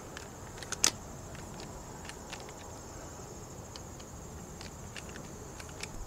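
Small clicks and scrapes of a screwdriver tightening the cable-clamp set screws in a plastic shore-power cord connector, with one louder click about a second in. A steady high insect chirring runs underneath.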